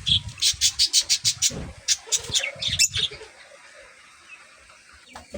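Pet birds chirping: a quick run of about a dozen sharp, high chirps over the first three seconds, then quieter, with another short burst of chirps at the very end.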